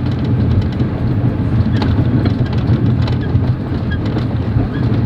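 Passenger train carriage running: a steady low rumble from the moving coach, with a few faint clicks.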